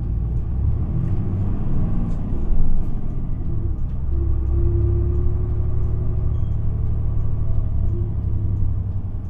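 Isuzu QPG-LV234L3 city bus's four-cylinder diesel engine pulling away from a stop, heard from inside the cabin as a steady low rumble with a faint engine tone that shifts as it accelerates. There is a brief louder knock about two and a half seconds in.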